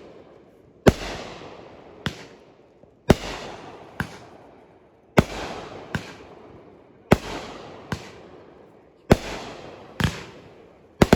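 Fireworks going off in a steady series: a loud bang about every two seconds, each followed about a second later by a smaller bang, with a fading rumble and echo after each.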